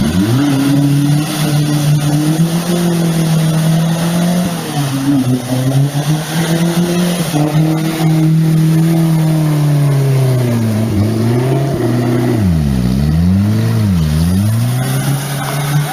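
A vehicle engine running hard under load, its note holding steady with small wavers, then revved down and up about three times near the end.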